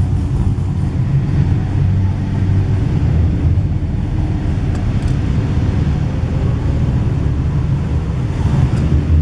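Holden Commodore's V8 engine running with a steady, deep low rumble.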